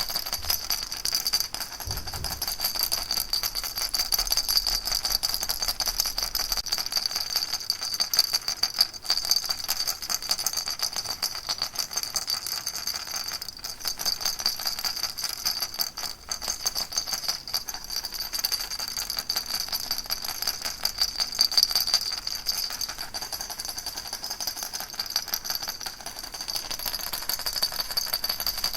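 Baby rattle shaken rapidly and without pause, giving a dense, even rattling.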